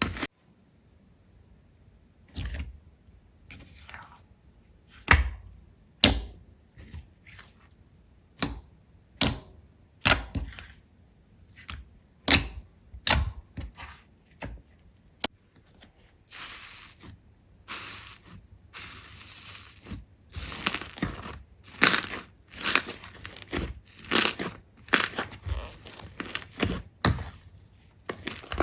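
Slime being squished and pressed by hand: irregular sharp pops and crackles, some loud, with a stretch of softer continuous crackling about two-thirds of the way through.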